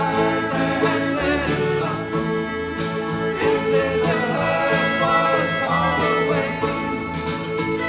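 Live band playing a country-style gospel tune, with fiddle and guitar.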